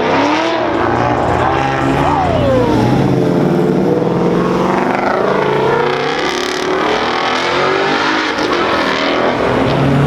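Several car engines revving and accelerating hard, overlapping, their pitch climbing and dropping again and again as cars pull away and pass.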